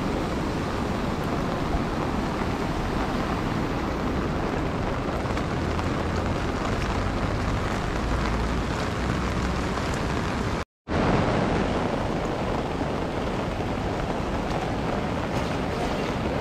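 Steady rushing hiss of rain and river water, with a low rumble of wind on the microphone. The sound drops out completely for an instant about ten and a half seconds in.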